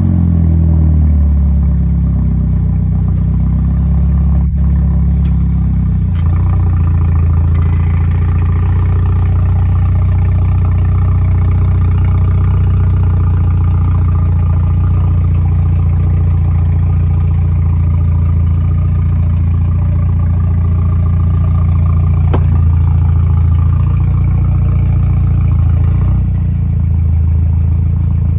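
BMW 328i engine idling after a cold start, a steady engine note that shifts in pitch about six seconds in and again near the end.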